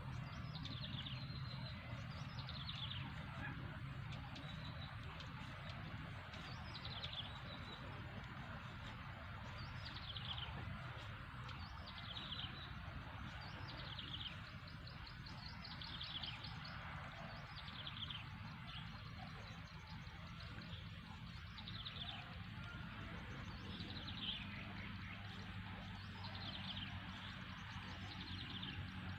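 A bird calling over and over, a short falling trill repeated about every two seconds, over a steady low hum.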